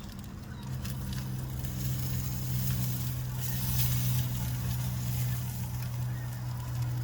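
Campfire crackling and food sizzling over a steady low hum, which grows louder about a second in.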